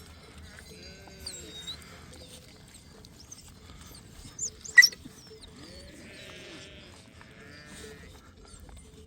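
A flock of sheep bleating, with several animals calling over one another, some in high wavering voices and some low. About halfway through there is a single sharp clack, the loudest sound.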